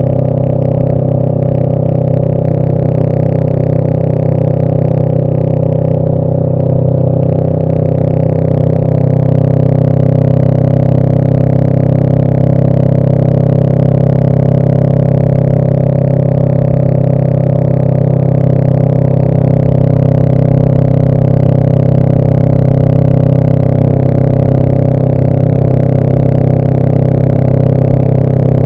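2018 Honda Rebel 500's parallel-twin engine running through a Radiant Cycles Shorty GP aftermarket exhaust, held at a steady engine speed while riding. It gets a little louder about eight seconds in.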